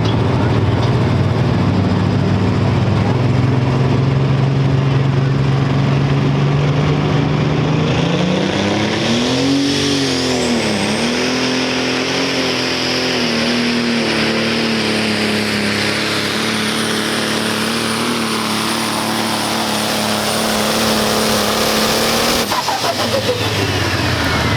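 Dual-fuel diesel pulling tractor engine running at a steady low pitch, then revving hard about eight seconds in and holding high revs with a thin high whistle above it, before cutting off suddenly near the end.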